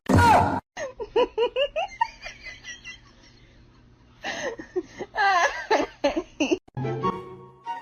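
High-pitched laughter: a loud burst, then a quick run of giggles, a short lull, and another stretch of laughing.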